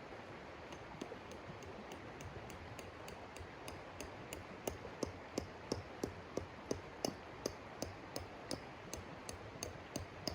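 A regular series of short, sharp taps, about three a second, growing louder about halfway through, over a steady hiss.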